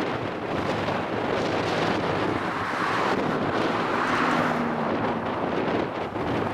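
Wind buffeting the microphone over the steady rumble of an Airbus A321's jet engines, swelling slightly about halfway through, with a faint low hum appearing about four seconds in.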